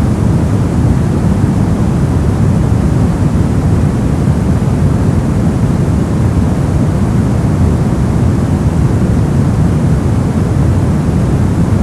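Steady generated white noise: an even, unchanging rush with most of its weight in the low end, a deep hiss rather than a bright one.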